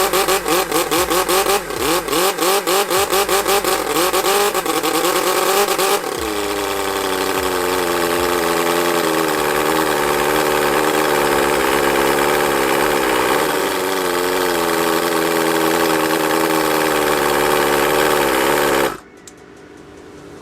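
Miniature 17.5cc four-cylinder OHV model engine running. For the first six seconds its speed wavers up and down with a rapid stuttering beat, then it runs smoother and steadier. The sound cuts off abruptly near the end.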